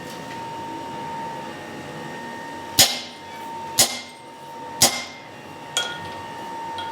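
Four sharp hammer blows on metal, about one a second, the first the loudest, each ringing briefly, over a faint steady whine.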